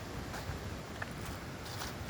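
Gusty wind buffeting the microphone in an uneven low rumble, with a few short rustles or clicks on top.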